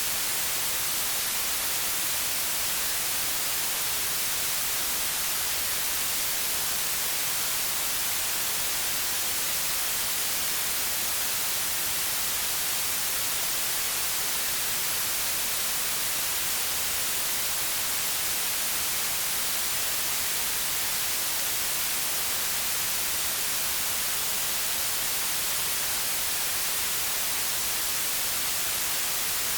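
Steady white noise: an even, bright hiss.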